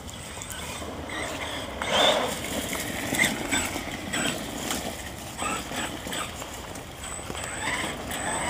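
Electric RC truck driving in short throttle bursts: a thin, high motor whine that comes and goes, with scattered brief rattles and scrapes from the truck moving over the ground.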